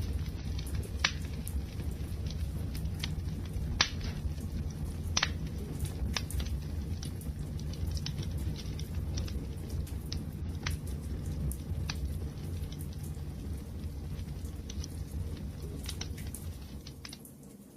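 Wood fire burning: a steady low rush of flames with irregular sharp crackles and pops from the burning wood. The sound fades briefly near the end.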